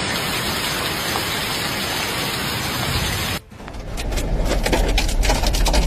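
Heavy rain pouring down as a loud, steady hiss. About three and a half seconds in it cuts to another downpour with a low rumble and a dense patter of sharp ticks from drops striking surfaces.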